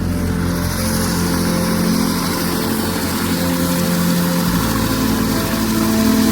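Helicopter turbine and rotor running steadily, a loud continuous drone with a low rotor beat; the engine's pitch shifts about four and a half seconds in.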